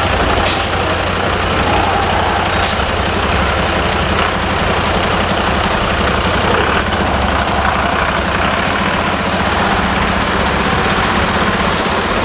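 Heavy army trucks' diesel engines running steadily as they pass in convoy, with a few brief sharp sounds in the first few seconds.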